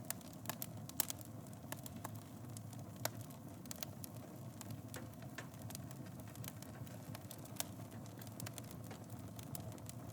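Wood fire burning in a fireplace: a steady low rumble with irregular sharp crackles and pops, a cluster of louder pops in the first few seconds.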